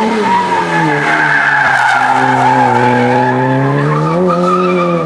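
Rally car engine heard from inside the car at full load through a corner. The revs sink as it slows, build again about four seconds in, then drop sharply near the end at a gear change, with tyre scrub under the engine.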